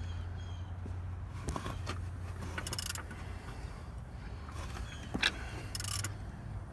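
Scattered metallic clicks and clinks from a wrench turning the engine over by hand, over a steady low hum; the loudest click comes about five seconds in.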